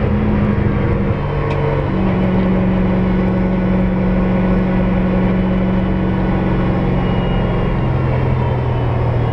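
Toyota 1UZ-FE 4.0-litre V8 in a rally-prepared Ford Sierra, driven hard and heard from inside the cabin. The engine note steps down about a second in, comes back up a moment later, holds steady for several seconds, then drops again near the end.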